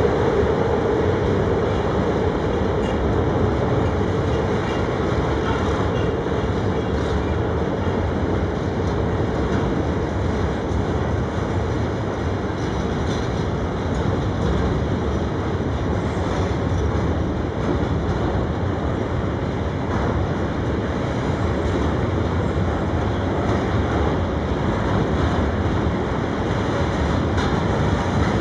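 Freight train rolling past at steady speed, a continuous rumble of wheels on rail with faint clickety-clack at the rail joints. A steady whine fades away in the first few seconds.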